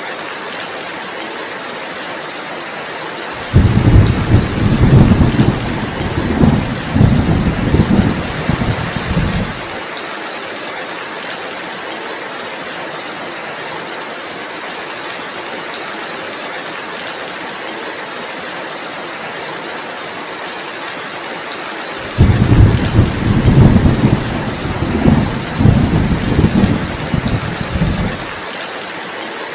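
Steady heavy rainfall hissing, with two long rolls of thunder, each about six seconds: one a few seconds in, the other about two-thirds of the way through.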